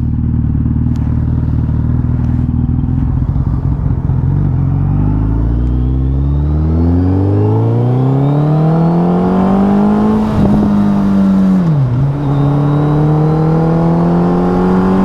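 Superbike engine running at low revs, then accelerating with the revs climbing steadily for several seconds. The revs dip sharply and recover about twelve seconds in, then hold steady at higher revs.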